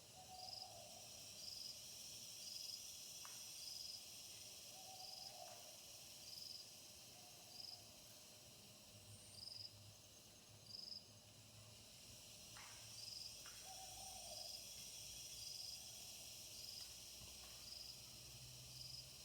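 Faint insects chirping: a steady high trill with a short high chirp repeating about once a second. A few short, low animal calls and some faint clicks come in between.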